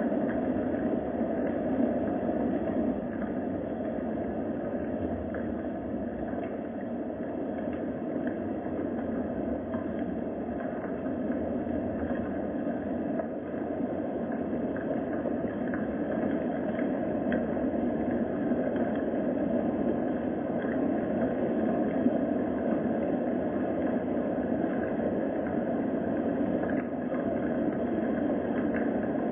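Steady rain ambience: an even, unbroken hiss with a dull, muffled tone and faint scattered patter.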